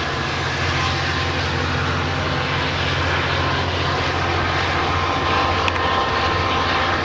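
Diesel locomotive engine of an EMD F59PH running steadily under power, a deep even drone as the Metrolink train pulls out.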